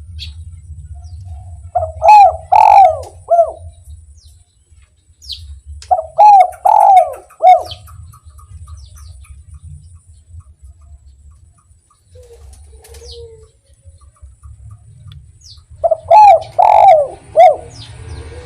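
Spotted dove (derkuku) cooing its 'kuk 1' song, three phrases of a few looping coo notes each, with pauses of several seconds between them. Faint high chirps of small birds come in between the phrases.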